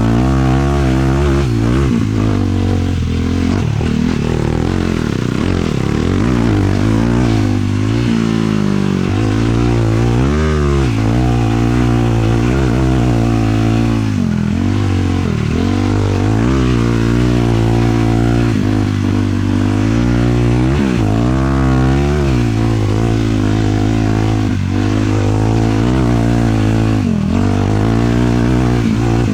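A 450cc single-cylinder four-stroke sport quad engine is running under load while riding, its pitch rising and falling over and over as the throttle is worked.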